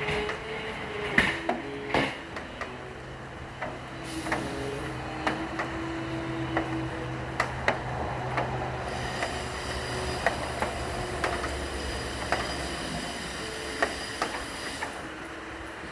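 Slow cello notes held over a steady hiss of rain, with scattered sharp taps of raindrops.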